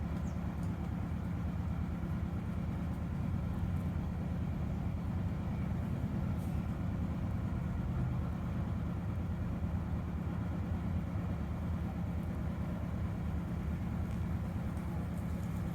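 A steady low hum and rumble that stays even throughout, with one steady low tone in it.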